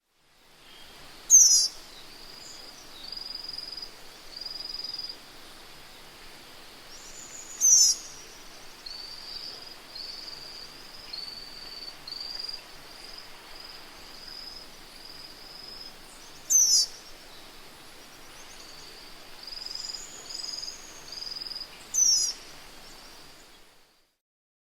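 Songbirds singing: a loud, sharp, very high call of quick downward-sweeping notes four times, several seconds apart, with runs of short high whistled notes in between.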